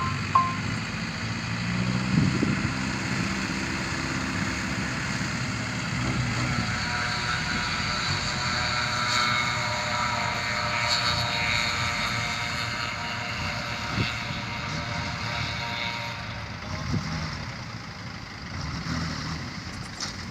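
Dump truck engine running. A steady, higher whine sits over it from about six seconds in until about four seconds before the end.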